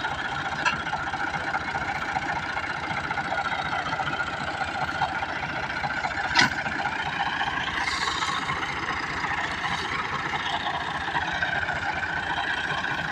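Massey Ferguson 385 tractor's diesel engine running steadily, with a sharp click about six seconds in.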